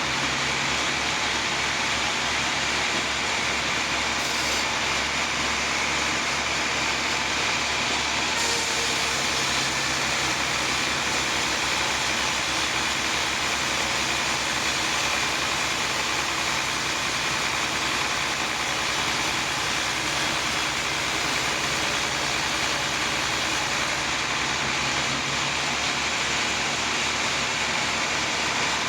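Sawmill machinery running steadily: an even machine noise with a steady high whine.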